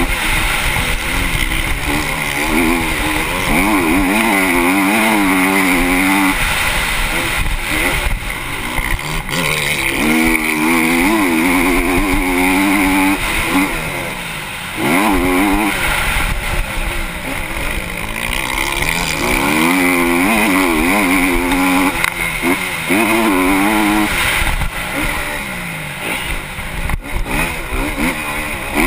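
Honda CRF250 motocross bike's single-cylinder four-stroke engine, heard from the rider's helmet, revving up and falling back over and over as the throttle opens and shuts, with a short easing-off about halfway through.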